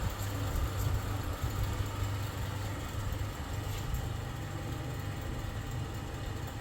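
Electric wall or exhaust fan running steadily: a low motor hum under the rush of moving air.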